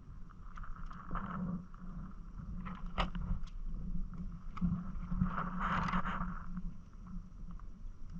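Water sloshing and splashing against the hull of a Hobie Island sailing kayak under way, over a steady low rumble, with a sharp knock about three seconds in.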